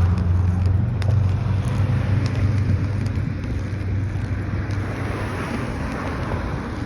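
A motor vehicle passing close by, its low engine hum loudest at first and fading away, over a steady street rush.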